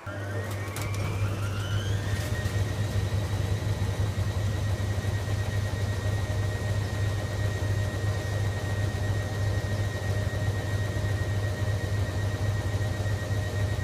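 Hoover Logic A3790 washing machine starting up: a steady low hum sets in suddenly, and a motor whine rises over about two seconds, then holds at a steady pitch.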